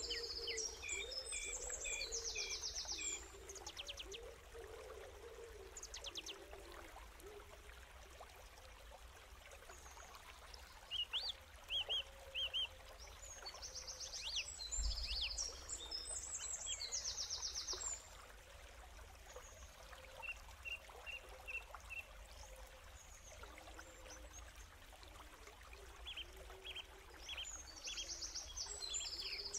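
Birds chirping: bursts of rapid, high trills and short chirp notes every few seconds over a steady background hiss.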